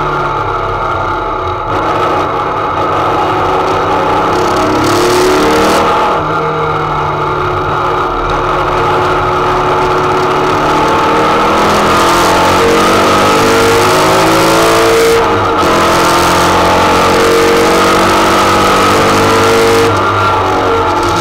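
Racing Type 4 VW flat-four (2.6-litre, twin Weber 48 IDA carburettors, 4-into-1 header) running hard under load, heard from inside the Beetle's cabin. The engine note climbs in pitch and drops sharply four times, then climbs again.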